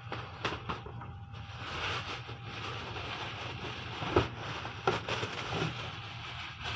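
Cardboard box and packing being scraped and rustled while a stuck item is worked out of it, with a few short knocks.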